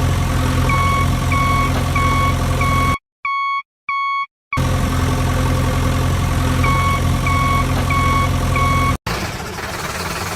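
Heavy vehicle engine idling steadily while a reversing alarm beeps about every half second. A few seconds in the engine drops out and two lone beeps sound in the silence, then the engine and beeping return. Near the end the sound cuts off suddenly and a different, rougher engine idle takes over.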